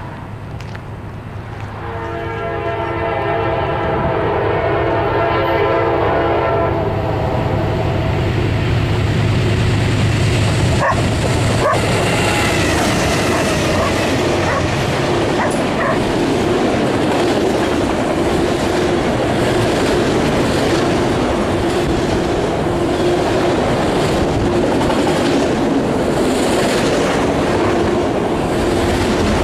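Diesel-hauled CSX freight train approaching: the locomotive's air horn sounds one long multi-note chord for about five seconds, the engines' rumble swells as they pass, then a long string of autorack cars rolls by close up with a steady clickety-clack of wheels over the rails.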